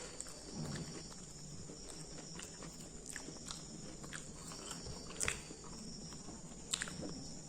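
A person biting and chewing crisp food close to the microphone: scattered soft crunches, with two sharper, louder bites about five and seven seconds in.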